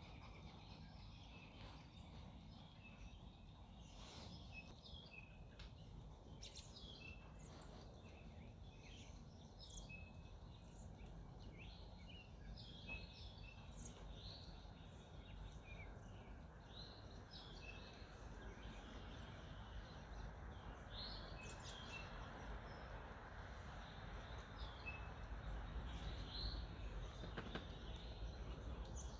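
Several songbirds chirping and singing in a faint dawn chorus of short, high calls and repeated brief notes, over a steady low background rumble that grows a little louder toward the end.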